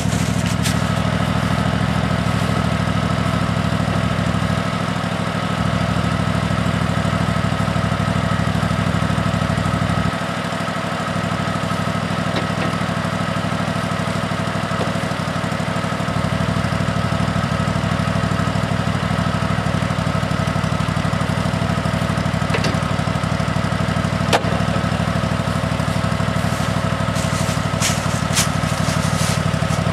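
Exmark Quest mower's engine running steadily at idle after a cold start, with a few sharp knocks and clatter partway through as the bagger is handled.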